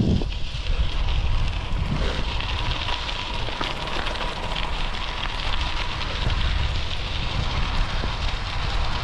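Bicycle tyres rolling on fine gravel, a steady crunching crackle, with wind rumbling on the microphone.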